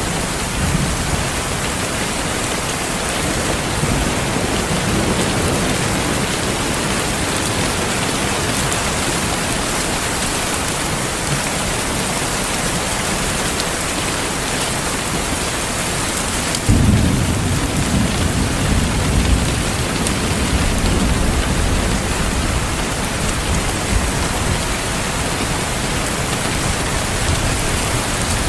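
Steady heavy rain hissing, with low thunder rumbling. A soft roll comes a few seconds in, and a sudden, louder clap about two-thirds of the way through rumbles away over several seconds.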